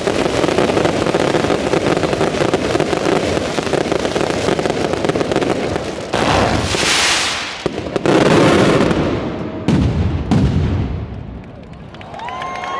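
Aerial fireworks display: a dense, continuous barrage of crackling explosions, then several separate loud bangs from about six seconds in, fading out near the end.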